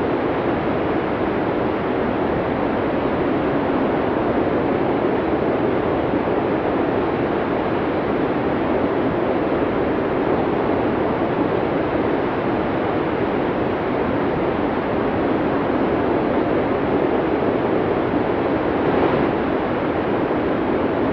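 Snowstorm wind blowing steadily, a constant rushing noise with a slight swell near the end.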